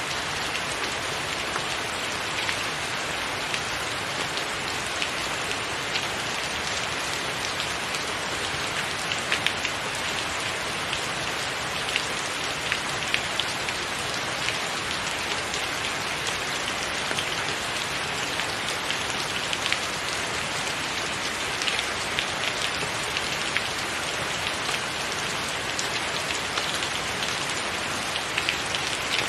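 Steady rain falling on a tiled roof, an even hiss dotted with many sharp drips and splashes of individual drops.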